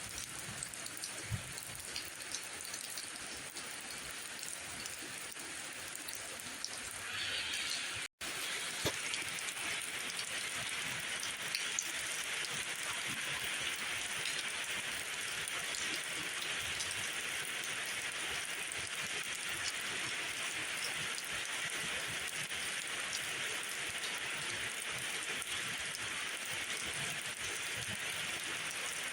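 Steady rain falling, with scattered drop ticks. It cuts out for an instant about eight seconds in, then comes back a little louder and brighter.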